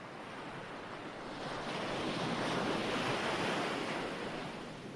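Recorded ocean waves washing on a shore: one wave swells up about a second and a half in, peaks around the middle and ebbs away toward the end.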